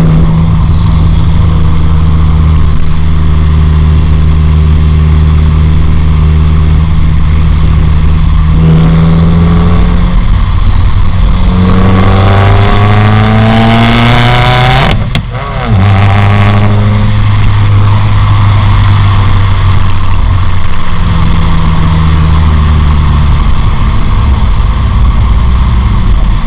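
2015 Subaru WRX's turbocharged 2.0-litre flat-four running through a Nameless Performance axle-back exhaust with the muffler deleted and a 4-inch tip, at a steady cruise. About twelve seconds in it revs up, drops off briefly at a gear shift a few seconds later, then settles back to a steady note.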